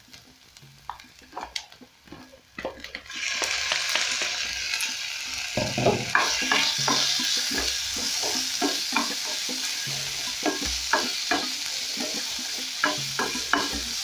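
Marinated pork pieces going into a hot non-stick pan of frying diced onions: a faint sizzle with light clicks jumps about three seconds in to a loud, steady sizzle as the meat hits the oil. The sizzle carries on while a wooden spatula stirs and scrapes the meat around the pan, with frequent light knocks.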